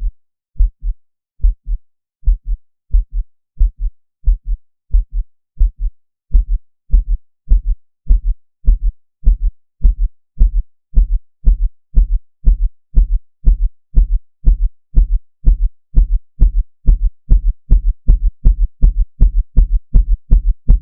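Heartbeat sound effect: paired low thumps in a lub-dub rhythm, steady at first, then louder from about six seconds in and speeding up toward the end like a racing pulse.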